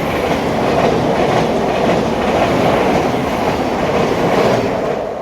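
Electric multiple-unit passenger train running close past a station platform, its wheels clattering over the rails. It fades away near the end.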